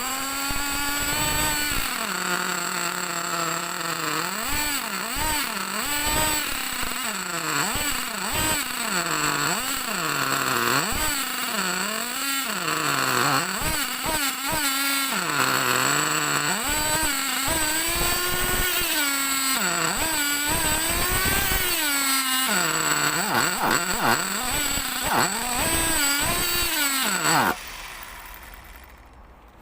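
A .21 (3.5 cc) nitro engine in a 1/8-scale RC monster truck, running and being revved over and over, its pitch rising and falling every second or two. It cuts off suddenly near the end.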